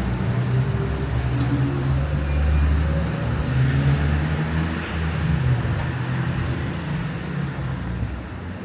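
Street traffic: a motor vehicle's engine running close by, a low rumble that shifts in pitch, over road noise, easing off toward the end.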